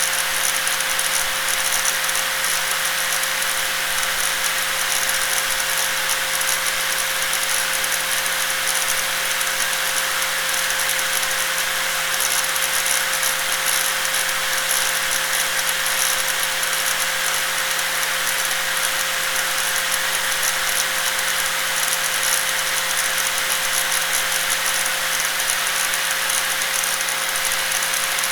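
Electric angle grinder running steadily at constant speed: an unchanging pitched motor tone under a dense, rattly hiss.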